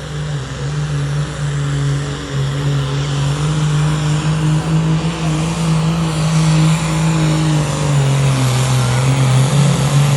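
Pulling vehicle's engine running hard at high revs under load during a truck and tractor pull, a loud steady drone whose pitch holds nearly level with small shifts, building slightly over the first few seconds.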